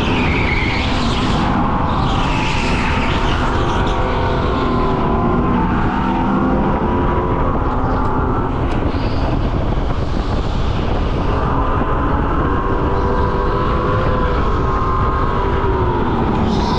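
Go-kart motor running hard around the track, its pitch rising and falling with throttle through the corners, with short tyre squeals near the start, about two to three seconds in, and again at the end.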